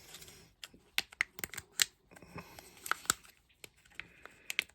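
Scattered light clicks and taps of hard plastic as a Kinder Joy egg's toy capsule is handled and opened by hand.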